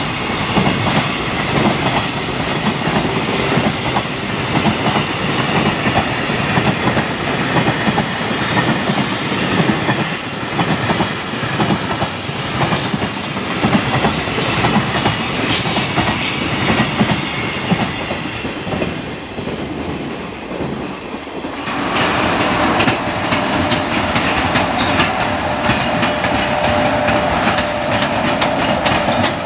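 Long freight train of container wagons rolling past, its wheels clattering over the rail joints, with a few brief high squeaks. About 22 seconds in the sound cuts abruptly to a different, steadier train rumble with a held hum.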